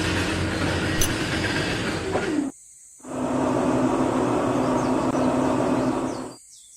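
A small machine running with a steady, noisy hum. It cuts off abruptly about two and a half seconds in, comes back half a second later, and cuts off again near the end.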